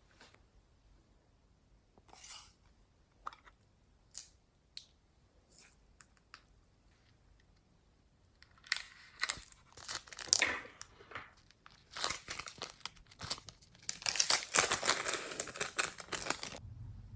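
Hands working glossy slime: scattered sticky clicks and pops at first, then a dense run of quick popping and crackling from about halfway, busiest near the end.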